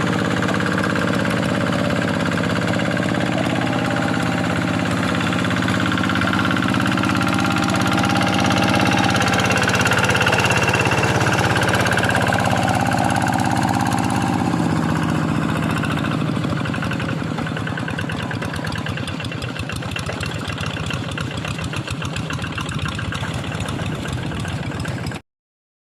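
Kubota single-cylinder diesel engine of a Quick G1000 two-wheel hand tractor running steadily. About halfway through, its note drops to a slower run with more distinct firing beats, and the sound cuts off abruptly near the end.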